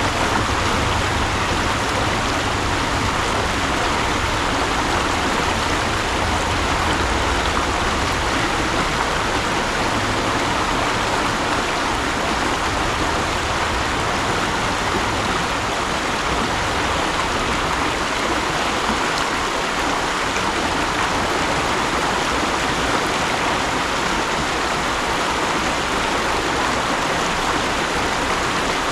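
Mountain stream running, a steady, unbroken rush of flowing water.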